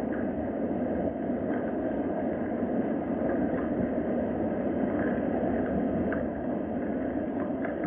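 Steady rain ambience, a dense even rushing with a few faint drips or ticks scattered through it.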